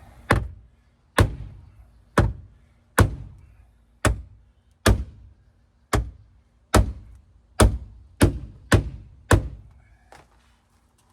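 Hammer blows on the crushed sheet-metal bottom of a Dodge Dakota's door and rocker panel, being beaten back down: about a dozen heavy strikes, roughly one a second, coming a little faster near the end.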